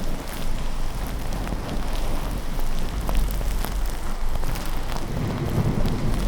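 Steady rain falling, with a low continuous thunder rumble underneath and scattered light ticks.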